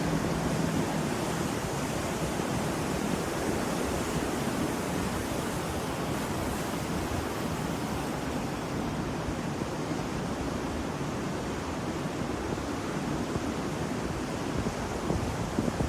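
Ocean surf washing continuously: a steady, even rush of breaking waves, its hiss thinning a little about halfway through.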